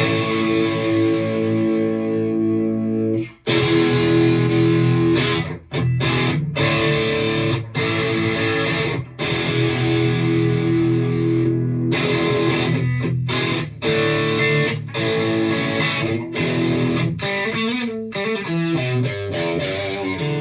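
Distorted electric guitar played through the Two Notes Opus's FlatBack V amp simulation: held chords broken by sharp stops, with a run of moving notes near the end.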